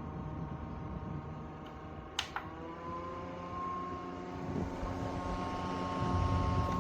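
Small fan motor of a portable evaporative air cooler running with a steady hum. About two seconds in there is a sharp click, and the hum's pitch shifts and settles at a new level, as with a change of fan speed.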